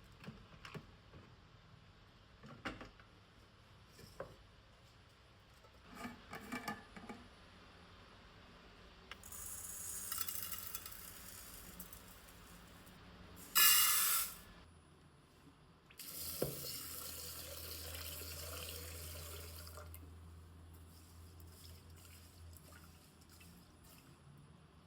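Kitchen tap running in three spells into a sink or pot, one brief loud gush in the middle, after some light clicks and knocks of kitchenware.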